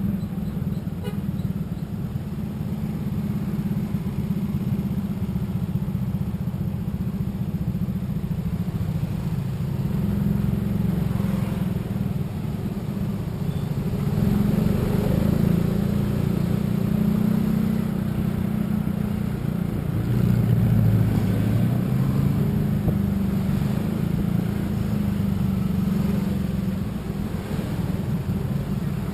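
Road vehicle travelling along a highway: steady low engine and road rumble, swelling slightly a couple of times.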